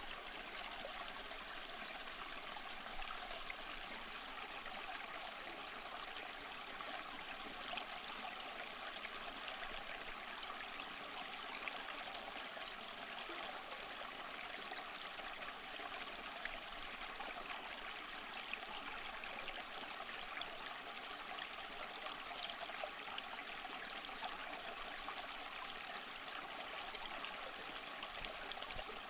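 Waterfall: water rushing and splashing in an even, steady hiss with faint scattered splashes.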